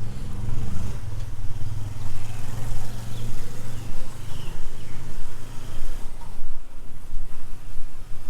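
A motor vehicle's engine running close by, a steady low hum that fades away about six seconds in as it moves off.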